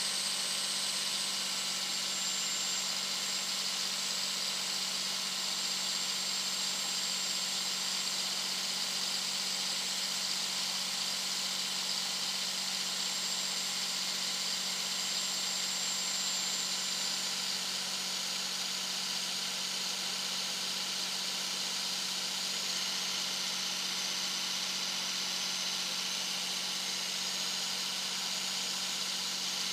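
Turbocharger whistle of a 2001 Dodge Ram 2500's 5.9-litre Cummins inline-six turbo diesel cruising at highway speed: a high, steady whistle over the steady engine drone, sinking slightly in pitch a couple of times along the way.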